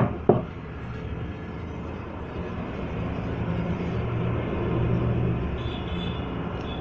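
Two sharp knocks at the start, from parts of a pneumatic impact wrench being handled during disassembly, then a steady low rumble of passing road traffic that swells in the middle and eases off, with another knock at the end.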